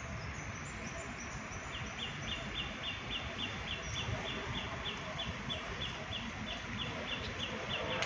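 A bird calling a fast, even series of short high chirps, about four a second, beginning about two seconds in, over a steady background rumble. A sharp click comes at the very end.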